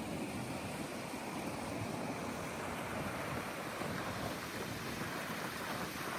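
Steady rushing outdoor noise of wind and water, with no distinct events.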